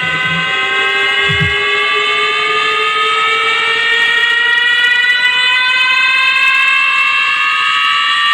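Large sound-horeg loudspeaker system playing a siren-like riser: several layered tones climbing slowly and steadily in pitch together.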